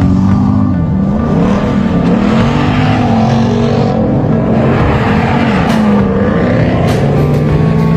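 Truck engines revving and accelerating as the trucks pull away, the engine pitch rising and falling several times.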